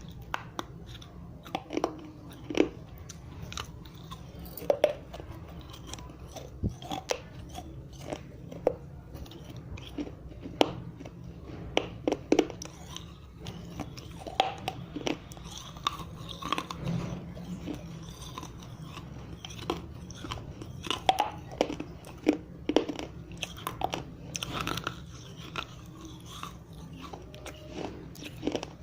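Dry red clay diyas being bitten and chewed close to the microphone: sharp, irregular cracks and crunches of the baked clay breaking between the teeth, one to three a second.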